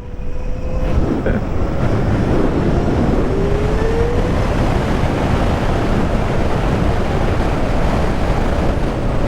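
Wind rushing over the microphone as an electric motorcycle accelerates and holds speed, with a faint rising motor whine about three seconds in.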